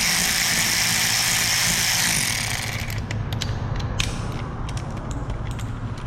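A steady hissing whir stops about two and a half seconds in. It is followed by the quick, uneven clicking of a socket ratchet working bolts loose on a Ford 5.0 Coyote V8 during teardown.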